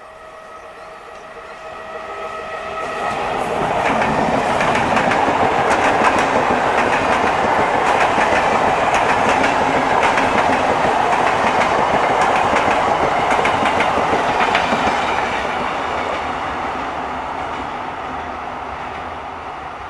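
Old ICF EMU coaches passing close by, wheels rumbling with a rapid clickety-clack over rail joints. The sound builds over the first few seconds, stays loud, and slowly fades near the end.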